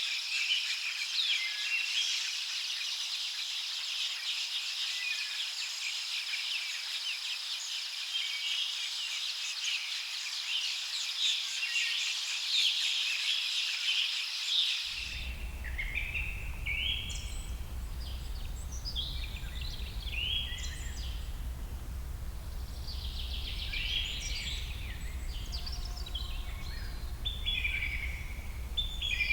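Dense chorus of birds and insects, a steady high buzzing thick with chirps and calls. About halfway through it cuts abruptly to separate bird songs, a few phrases at a time, over a steady low rumble.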